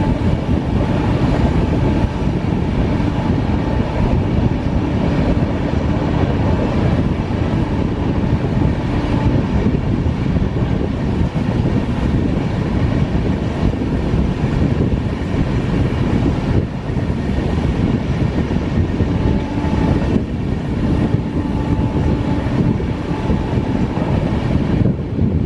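Passenger train running at speed: a steady, loud rumble of the coach and its wheels on the track.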